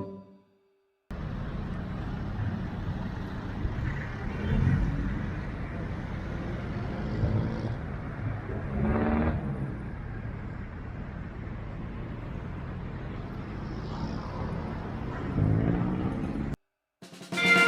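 Street traffic: motor vehicles running and passing, a few engines rising and falling in pitch as they accelerate. It starts after about a second of silence and cuts off suddenly near the end.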